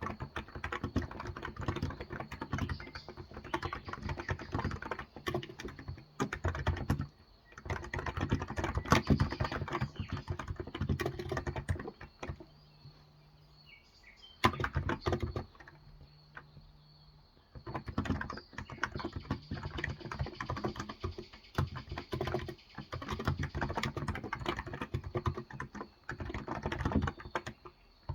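Typing on a Cox Endeavor electro-capacitive (Topre-style) tenkeyless keyboard with light 35 g keys: steady runs of soft keystrokes, with a longer pause about halfway through.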